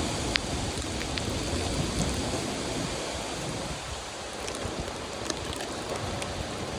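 Steady rain, with a few sharp ticks of drops striking close by.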